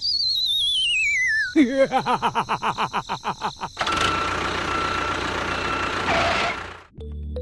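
Cartoon-style sound effects: a whistle sliding down in pitch with a wobble, then a quick run of springy bouncing boings that speed up and fade out, followed by a few seconds of hissing noise. Music comes in just at the end.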